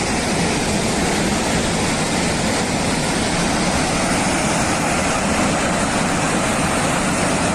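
Steady rushing roar of floodwater pouring through a collapsed pond bank, loud and unbroken.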